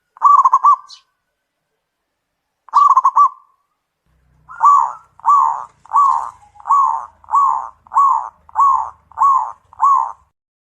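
Zebra dove (perkutut) calling: two short, rapid stuttering phrases, then a run of nine evenly spaced coo notes, about one and a half a second.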